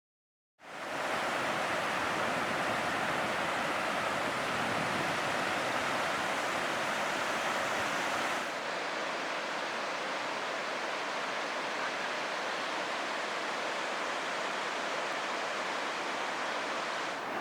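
Pacific Ocean surf: a steady rush of breaking waves. It starts suddenly just after the beginning and turns slightly duller about eight seconds in.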